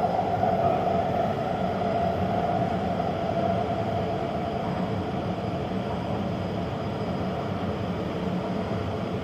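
Taipei Metro Zhonghe–Xinlu line train running: a steady rumble of wheels on track, with a tonal band that fades over the first few seconds while the overall sound eases slightly.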